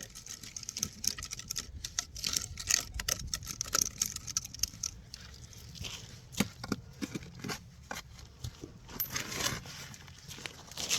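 Hand digging into dirt and gravel with a metal digging tool: a run of short scraping and crunching strokes.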